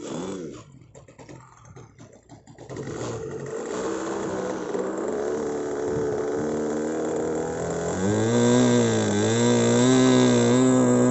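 OS 46 two-stroke glow (nitro) engine of an RC model plane running at high speed, faint at first and growing steadily louder, its pitch dipping and rising again about eight seconds in.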